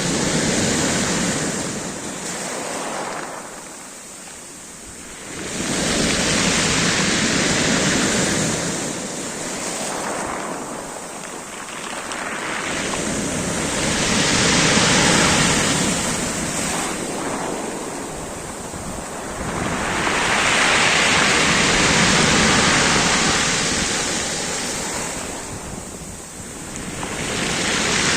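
Black Sea waves breaking and washing up the shore, a surge of surf about every five to seven seconds that swells and then fades.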